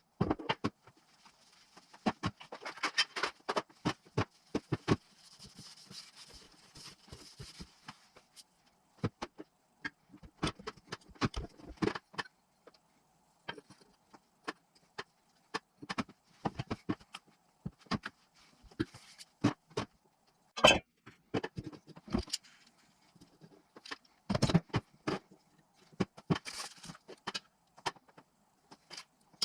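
Small metal engine parts and hand tools clinking and knocking in irregular clusters as a motorcycle engine is put together, with a soft hiss under the clinks in the first several seconds.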